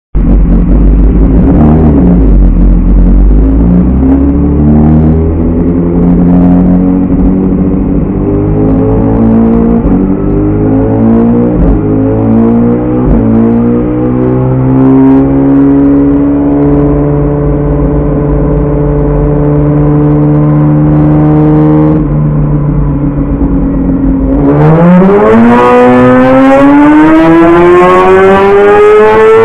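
BMW S1000RR inline-four engine through a full aftermarket exhaust, running loud, its pitch climbing slowly and steadily for most of the time. The pitch falls back briefly, then rises sharply again near the end as the revs climb.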